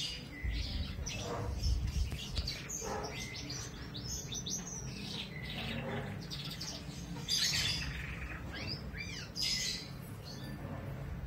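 Birds chirping: many short, high, quickly sweeping calls overlapping throughout, over a low rumble that is strongest in the first couple of seconds.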